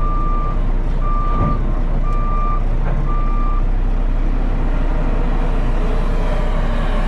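Backup alarm on a piece of heavy equipment beeping four times at a steady pitch, about once a second, then stopping, over the steady rumble of a heavy engine running.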